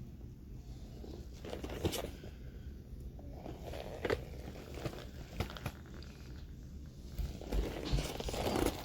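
Handling noise: rustling and crinkling with scattered light clicks and knocks, as things are moved about by hand.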